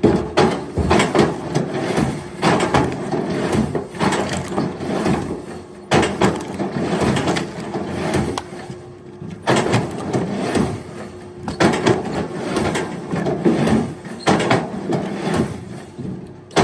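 Wood cracking and splintering as it is broken by a motor-driven firewood machine, over a steady motor hum. The cracking comes in spells with brief lulls about 6, 9 and 11 seconds in.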